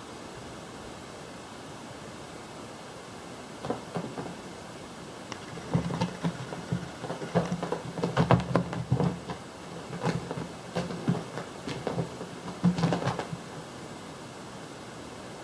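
A cat's paws thumping and scrabbling on the floor while it chases a laser dot: a flurry of quick knocks and thuds that starts a few seconds in and stops a couple of seconds before the end, over a steady hiss.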